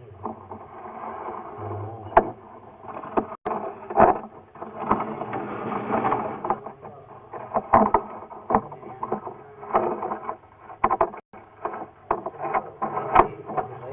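Irregular knocks, clicks and scraping as a drain inspection camera is pushed along a sewer pipe, its head bumping against the pipe.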